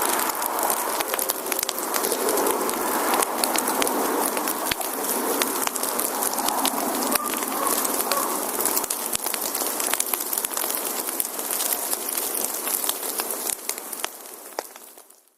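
Wood campfire burning: dense crackling and popping of the logs over a steady hiss, fading out near the end.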